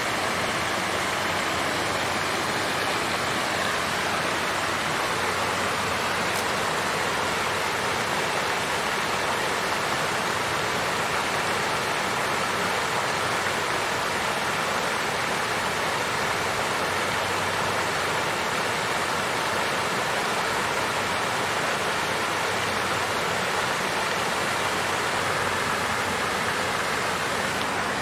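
Water fountain with water flowing and splashing in a steady, even rush that does not change.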